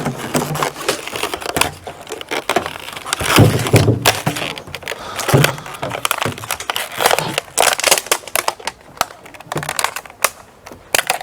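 Plastic crackling and crunching with many sharp irregular clicks, as plastic bottles and tape are handled and pressed together.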